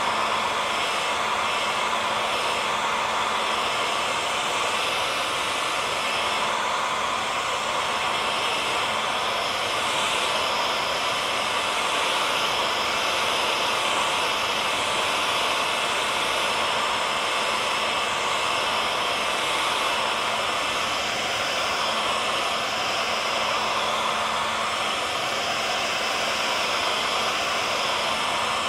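Hair dryer blowing steadily: a constant rushing whoosh of air with a faint steady motor hum beneath it, unchanging throughout.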